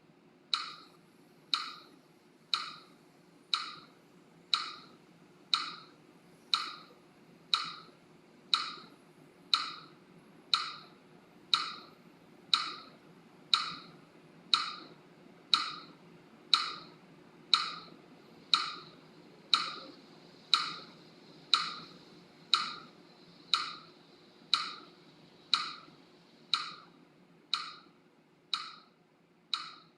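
Metronome clicking steadily, about once a second, each click sharp and woody with a short ring.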